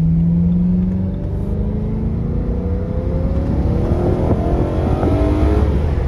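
Stage 2-tuned BMW E90 M3's 4.0-litre V8 heard from inside the cabin, pulling under acceleration with its revs climbing steadily.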